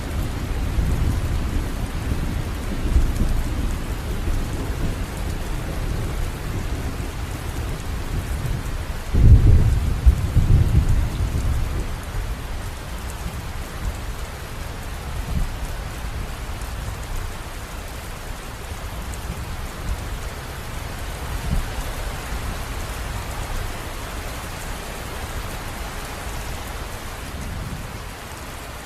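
River water running, a steady rushing noise. A low rumble sits under it for the first dozen seconds, swelling into a loud low burst about nine to eleven seconds in, after which the rush goes on more evenly and a little quieter.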